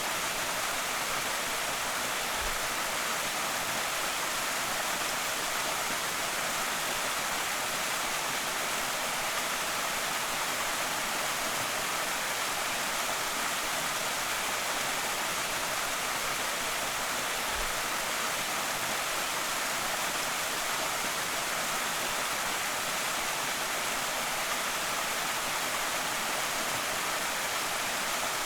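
Small creek waterfall: water pouring and splashing in a steady, unbroken rush.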